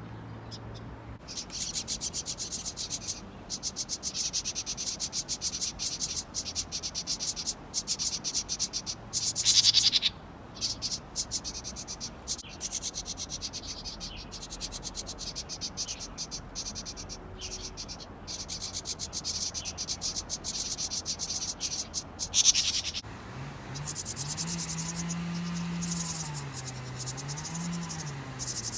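Insects chirping in fast pulsing trains, with two louder bursts along the way. A low wavering hum joins near the end.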